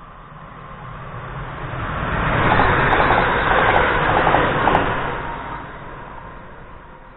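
Electric multiple-unit passenger train passing through a station at speed without stopping. The rushing noise builds as it approaches, peaks with a quick rhythmic clatter of wheels over the rails as the carriages go by, then fades as it runs away.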